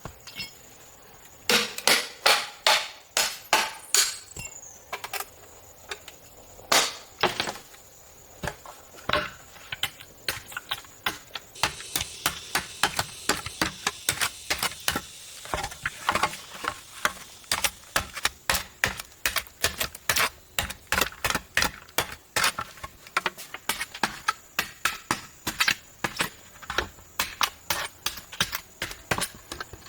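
Hand tool chopping bamboo: sharp strikes in quick runs for the first several seconds, then a steadier beat of about three strikes a second.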